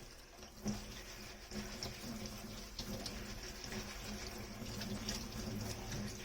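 Hand dishwashing in a kitchen sink: water running and splashing, with small clinks and knocks of dishes, one a little louder about a second in.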